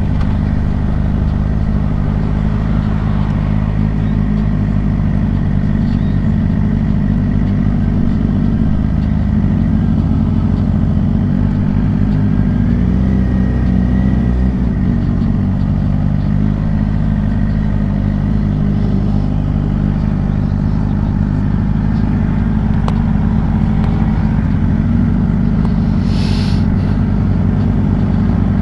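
Suzuki GSX-R 600 inline-four engine running steadily at an even engine speed, with no revving. A brief hiss comes near the end.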